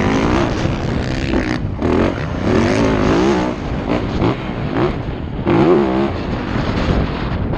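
Motocross dirt bike engine revving up and down over and over, its pitch climbing and dropping every second or so, over a steady rumble.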